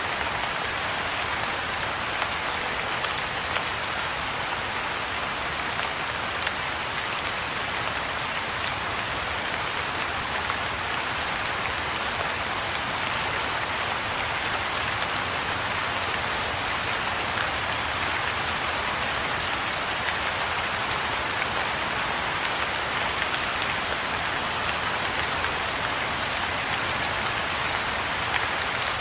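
Soft rain falling steadily on a pond and the grass and shrubs around it: an even hiss with scattered individual drops.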